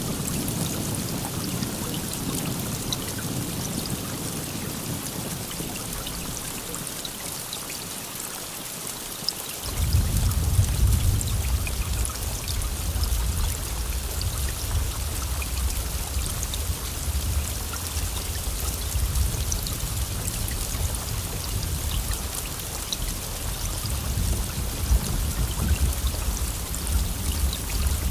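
Steady heavy rain hissing and pattering. Under it a deep low rumble fades away over the first several seconds, then returns abruptly about ten seconds in and carries on.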